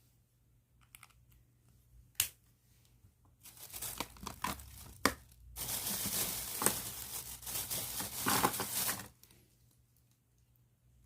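Plastic bag crinkling as it is handled, in two stretches of about two and three and a half seconds, with a few sharp clicks before and between them.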